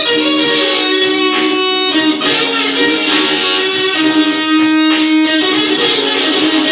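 Electric guitar playing a blues: picked notes and chords that ring on between sharp attacks.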